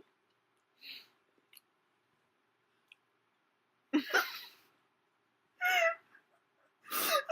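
Mostly quiet room with a few short human vocal sounds: a breathy exhale or laugh about four seconds in and a brief high-pitched vocal squeal near six seconds, then talking begins just before the end.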